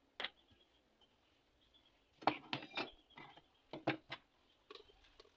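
Irregular knocks and clatter of hard objects being handled, a dozen or so short strikes, busiest from about two seconds in.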